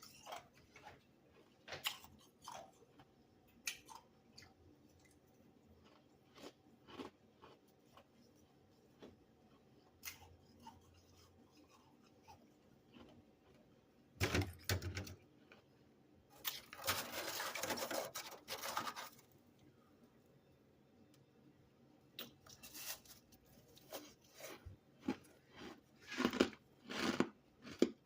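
Close-up chewing of freezer frost chunks: scattered sharp crunches, with a longer dense stretch of crunching about halfway through and a quick run of crunches near the end.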